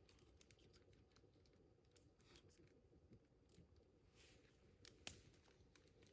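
Campfire crackling faintly: scattered small pops and snaps, with one sharper snap about five seconds in.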